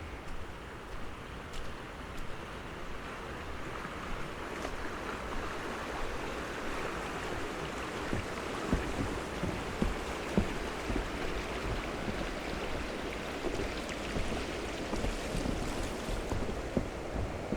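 A steady rushing noise, which grows louder toward the middle and eases near the end, with the irregular thuds of footsteps in snow.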